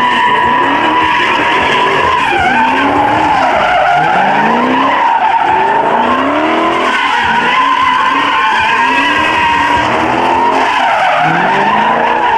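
A muscle car doing a burnout: tyres squealing continuously while the engine revs climb again and again every second or two.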